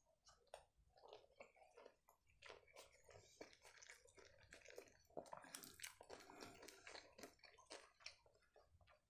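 Faint, close-miked chewing of a sushi roll: irregular wet mouth clicks and smacks, busiest a little past the middle.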